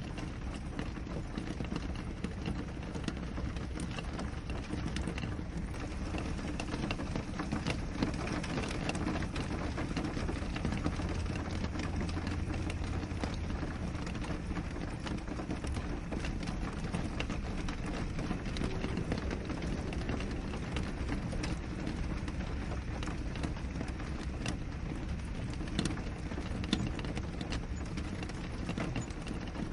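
Steady rain falling, with many irregular small drop taps, as of rain striking a window.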